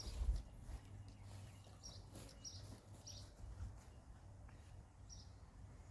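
Faint, scattered bird chirps over a quiet, steady low hum of background noise.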